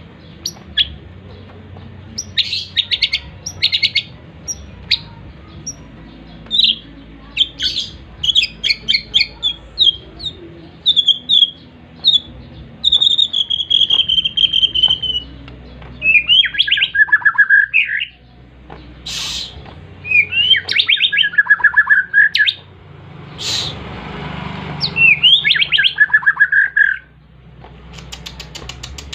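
Pet songbird singing vigorously in repeated phrases of quick chirps, trills and sweeping whistled notes, some falling in pitch. There are a couple of sharp clicks and a short rushing noise in the second half.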